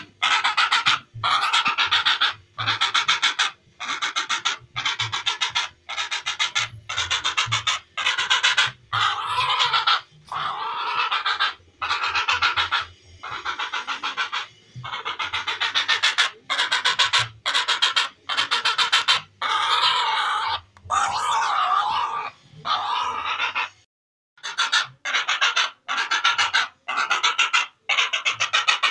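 Heron calls: a long run of rapidly pulsed, rasping calls, each under a second long, repeated about once a second with short gaps, and one brief silent break about 24 s in.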